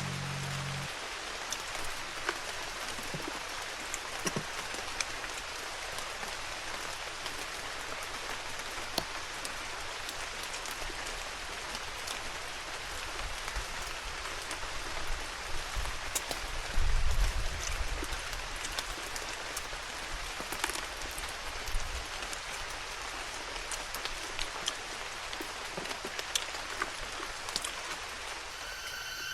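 Steady rain falling, with scattered louder drops ticking on surfaces. A low rumble sounds a little past halfway.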